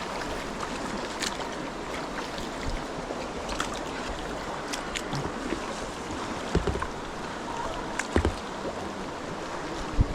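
River current rushing and splashing around a kayak, with scattered small splashes and three low thumps in the second half, the last one near the end.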